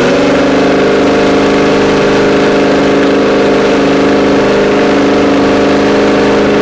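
Kiekhaefer 482ci big-block marine V8 revved up sharply at the start and held at a steady high rpm, a timing-check rev while the ignition timing is being set.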